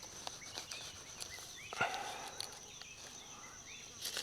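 Woodland ambience: a steady high insect drone with small bird chirps, scattered light clicks, and a short rustling scrape about two seconds in as soil and leaf litter are dug around a mushroom's base.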